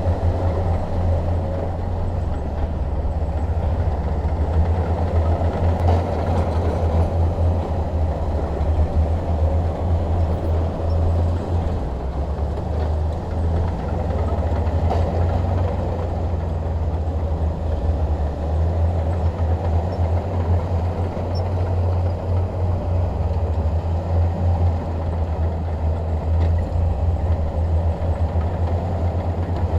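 Bulldozer's diesel engine running steadily under load, a continuous low rumble with no pauses.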